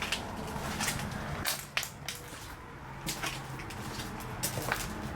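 Footsteps crunching on a debris-strewn floor: about eight to ten irregular sharp crunches and clicks over a faint low hum.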